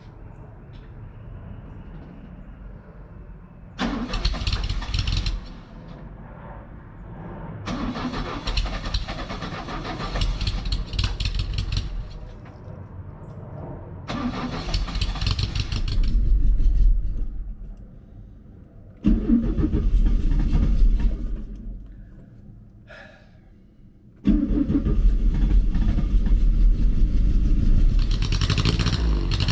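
A car engine heard in about five separate passages, each starting suddenly and running a few seconds before dropping away; the last starts about 24 seconds in and keeps going.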